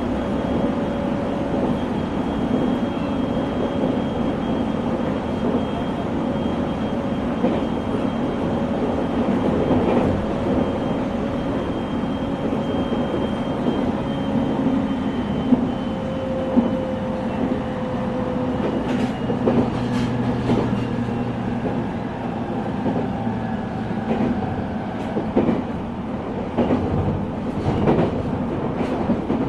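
JR East 701 series electric train heard from inside a motor car while running: a steady rumble of wheels on rail, with a thin traction-motor whine that drifts slowly lower in pitch. From about two-thirds of the way through, rail-joint clicks come in.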